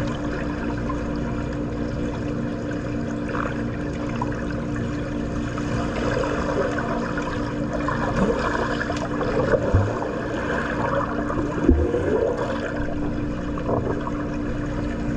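Swimming pool water sounds: continuous splashing and churning water, with a steady low hum underneath and a couple of dull thuds near the end.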